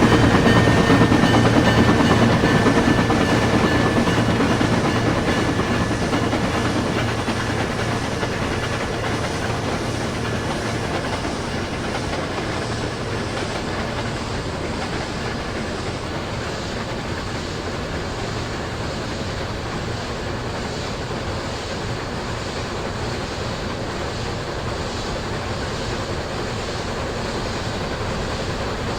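A train running on rails: a steady rushing clatter, loudest at first and easing off over the first ten seconds before settling to a steady level.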